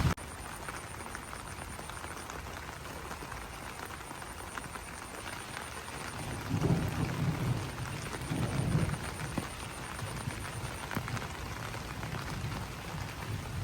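Rain falling on banana leaves, a steady patter of many small drop ticks. A fast, high-pitched pulsing trill comes and goes in the background, and two brief low swells rise about halfway through.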